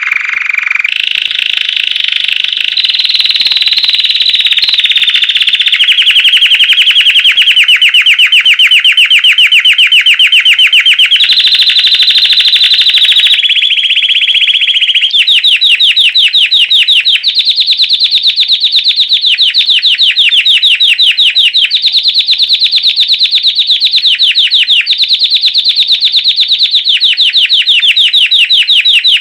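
Belgian canary singing a loud, unbroken song of fast, high trills in the classic 'campainha' (bell) style. The trill changes its note and speed every few seconds without a pause.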